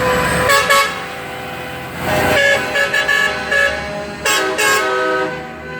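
Truck air horns honking in several blasts, each a chord of steady tones, over the noise of passing trucks.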